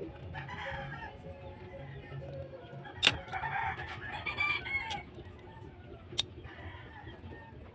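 Chickens clucking and a rooster crowing, with two sharp knocks, one about three seconds in and one about six seconds in.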